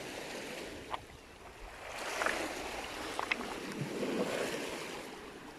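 Sea waves washing onto a stony shore, swelling about two seconds in and easing off near the end, with a few sharp clicks of stones underfoot.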